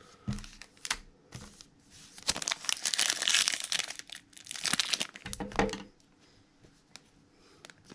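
Foil trading-card pack wrapper being torn open and crinkled by hand, the crackling densest a couple of seconds in.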